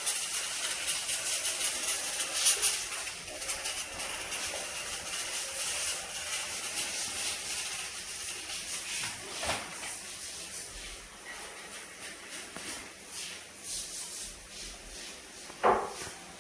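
A fogger spraying disinfectant mist, a steady hiss that is loudest for the first few seconds and then eases off. A short knock comes near the end.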